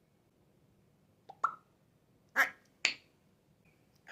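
African grey parrot making short clicks and pops: a quick pair of small clicks about a second and a half in, then two louder popping sounds about half a second apart.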